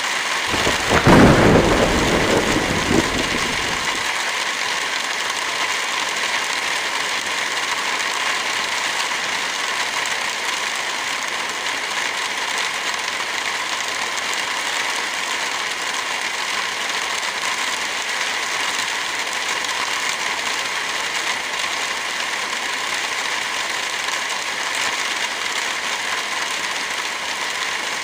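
Heavy rain falling in a steady hiss. A low rumble starts just after the beginning, is loudest about a second in and fades out by about four seconds.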